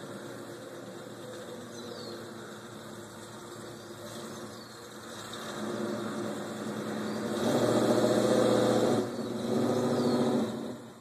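Chevrolet El Camino engine running at a steady idle after a hard start, then revved up louder twice over the last few seconds. The engine sound drops away suddenly near the end.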